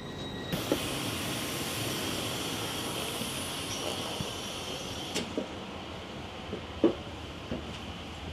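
A steady hiss of air from a train starts suddenly about half a second in and eases off with a click about five seconds in, leaving a lower steady rumble with a few soft knocks.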